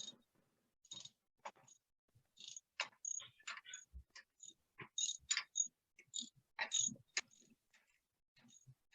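Irregular metallic clicks and scrapes of hand tools working a spark plug out of a marine gasoline engine, a few sharp taps ringing faintly.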